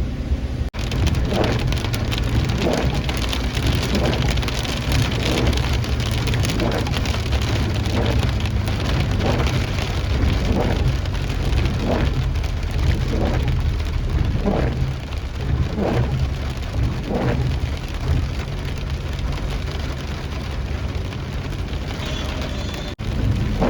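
Rain falling steadily on a hard surface over a constant low rumble, with a regular swish repeating about every second and a third.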